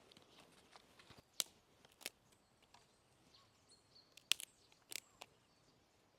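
A handful of sharp, irregular clicks and snaps over quiet forest background, with a faint bird chirp in the middle.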